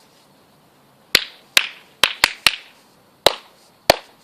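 Seven sharp hand claps at uneven intervals, starting about a second in, each one loud and brief with a short ring.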